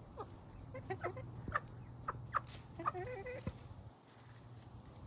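Chickens clucking: a string of short calls that die down after about three and a half seconds.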